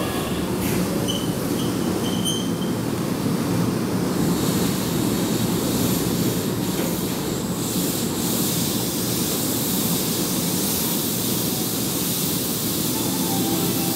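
Keihan 9000-series commuter train braking to a stop at a station platform, with short high brake squeals a second or two in, then a steady rumble and hiss as it stands with its doors open. The hiss grows louder about four seconds in.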